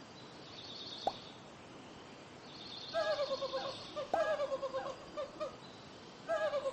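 Animal calls: three bursts of rapid, short, falling pitched notes, over a faint high trill, with a few single clicks.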